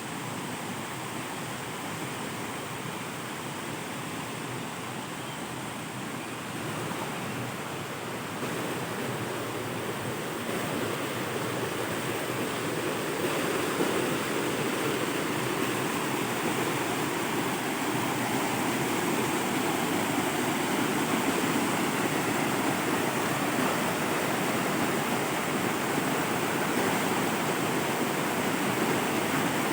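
Waterfall rushing, a steady wash of falling water that grows louder over the first half and then holds.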